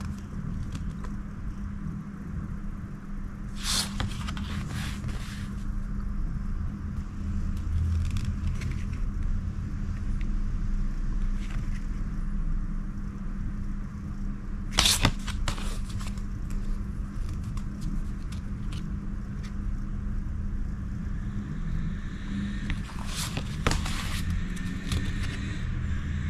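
A steady low hum runs throughout, broken by a few short crackling scrapes of photo cards and their packaging being handled: about four seconds in, near the middle, and near the end.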